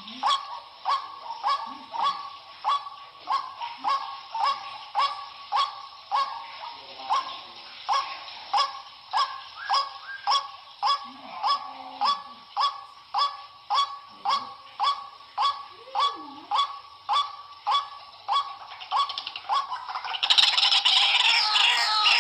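White-breasted waterhen calling, a short 'kru-ak' note repeated evenly about twice a second. Near the end a louder, busier bout of several overlapping calls takes over.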